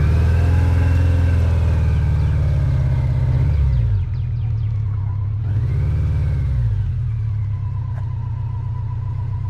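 Heavy BMW LT touring motorcycle's engine running, being checked after the bike was dropped and picked up. The engine is revved twice: the pitch rises and falls near the start and again about six seconds in. Between and after the revs it runs at a steady idle.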